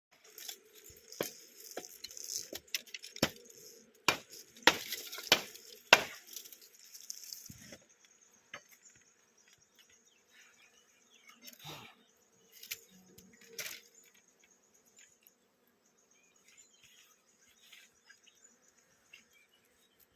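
Insects trilling in a high, steady, pulsing tone. Sharp clicks and knocks come through the first half and thin out after about eight seconds.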